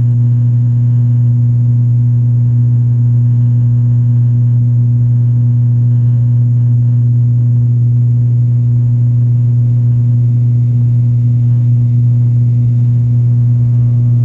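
An aircraft's engines droning steadily after takeoff: a loud, unchanging low hum with a weaker hum an octave above it.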